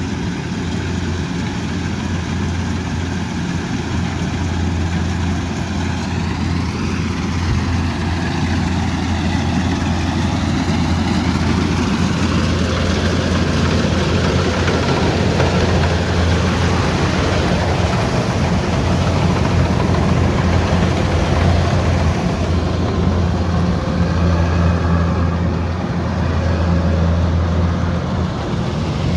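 Kubota combine harvester's diesel engine running steadily with its machinery working, a loud low hum throughout. The pitch shifts briefly about seven to twelve seconds in.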